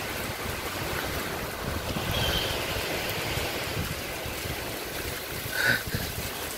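Heavy rain falling with a steady hiss, with wind buffeting the microphone. A brief high-pitched call sounds once near the end.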